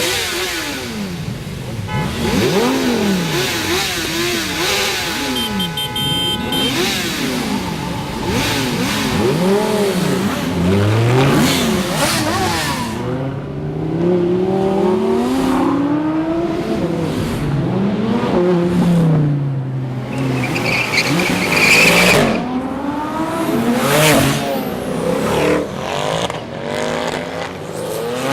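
Several supercar engines revved hard in turn and over each other, the pitch sweeping up and falling back again and again.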